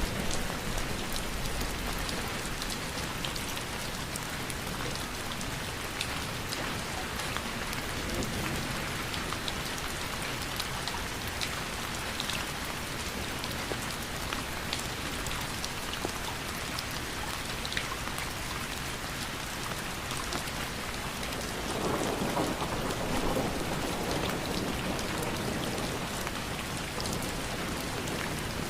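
Steady rain falling, a dense even hiss scattered with sharp drop ticks. A low rumble swells briefly about three-quarters of the way through.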